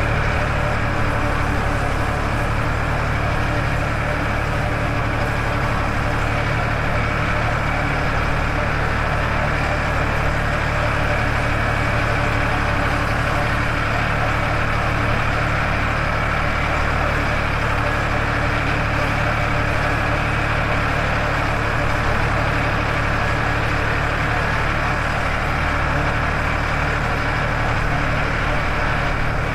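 Farmtrac 60 tractor's diesel engine running steadily at a constant speed, heard from the driver's seat.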